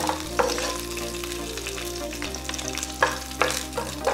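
Tempering frying in hot sesame oil: mustard seeds, lentils, green chillies and freshly added chopped ginger sizzling as they are stirred in the pan, with a few sharp clicks.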